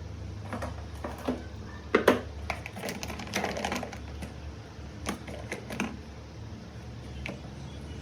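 A run of irregular sharp clicks and light knocks, busiest between about two and four seconds in, over a steady low hum.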